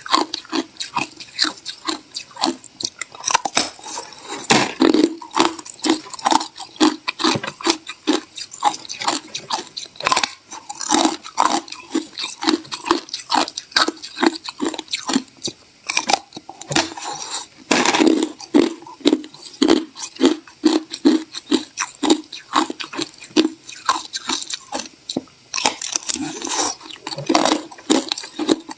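Ice being bitten and chewed close to the microphone: a fast, steady run of sharp crunches, several a second.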